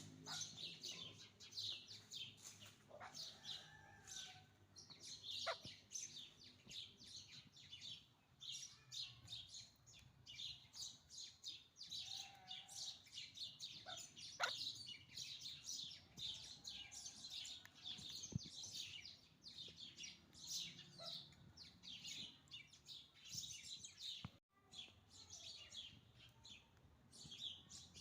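Birds chirping: a dense, continuous run of short, high chirps, faint overall, with a few lower single calls scattered among them.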